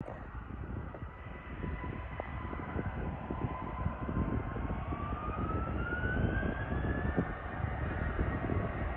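Airbus A321-231's IAE V2500 turbofan engines spooling up for takeoff: a low rumble with a whine that rises steadily in pitch from about halfway through, over a faint steady high tone.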